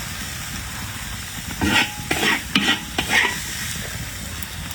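Food sizzling steadily in a pan, with four loud scraping strokes of stirring about halfway through.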